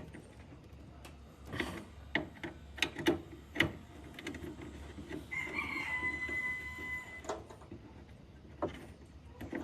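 Scattered sharp knocks and taps, then a single drawn-out animal call about five seconds in that holds one pitch for about two seconds.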